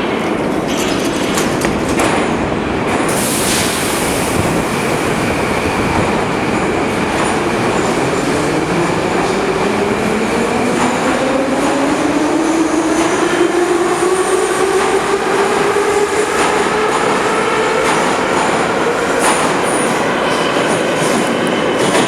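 E-series metro train rumbling along the rails with scattered clicks from the wheels, and from about a third of the way in a motor whine that rises steadily in pitch as the train speeds up.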